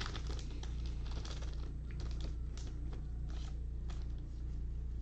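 Trading cards being handled, with a quick run of soft irregular clicks and slides of card stock, over a steady low electrical hum.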